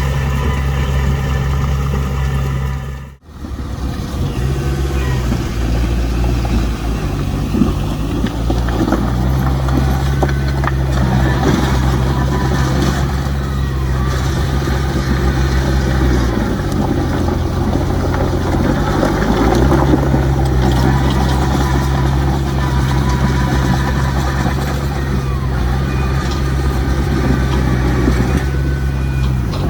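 Heavy diesel earthmoving machinery running steadily, its engine note dipping and picking back up twice, with a rough clatter over it. The sound cuts out briefly about three seconds in.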